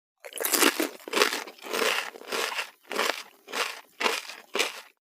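Crunchy food being chewed, about eight crunching bites at an irregular pace of roughly two a second.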